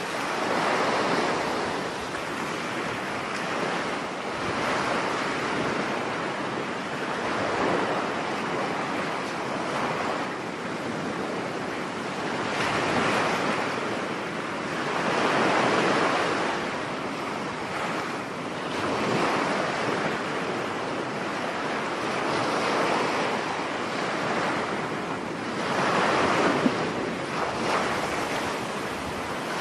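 Sea waves breaking on a beach during a storm, a new swell of surf every three or four seconds, with wind blowing over it.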